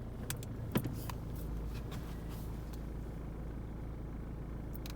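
Citroen C3 1.6 BlueHDi diesel engine idling steadily, a low hum heard from inside the cabin. A few light clicks come in the first second and again near the end.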